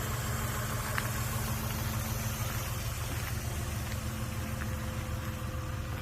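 Mazda MPV's 3.0-litre V6 idling steadily.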